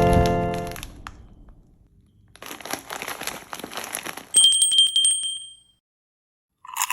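A pitched tone fades out in the first second. About two and a half seconds in comes a stretch of crinkling, crackly noise, like a sweet wrapper being handled. It is followed by a bright bell-like ring with a fast run of clicks, like a bicycle bell sound effect.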